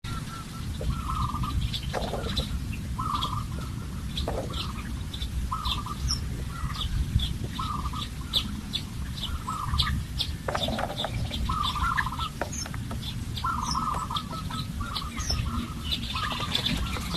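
Birds calling in a forest: one call repeated about once a second, with short, higher chirps between, over a steady low rumble.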